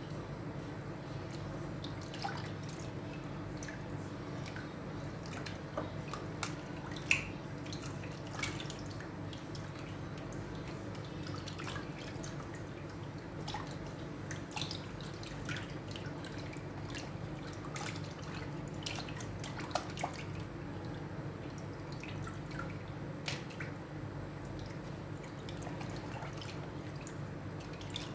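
Raw chicken being washed by hand in water: scattered drips, small splashes and clicks of handling over a steady low hum.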